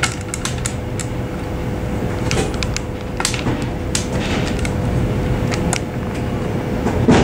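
Vestibule of a suburban train standing at a platform: a steady mechanical hum with a constant tone, scattered clicks and knocks, and a heavy thump near the end.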